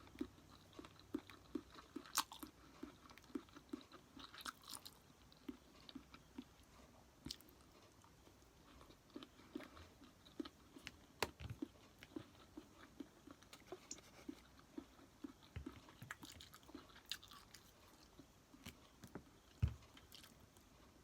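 A person chewing food close to the microphone: a faint, regular chewing rhythm of about two to three chews a second, with a few sharper clicks and crunches.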